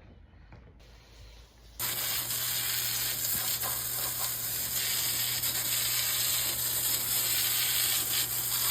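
A machine switches on suddenly about two seconds in and keeps running with a steady, loud hiss over a constant low hum: the strange noise heard in the cabin.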